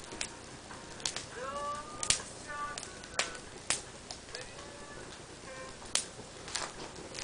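Driftwood campfire crackling, with sharp irregular pops, the loudest about two seconds in. Short chirping calls sound between the pops.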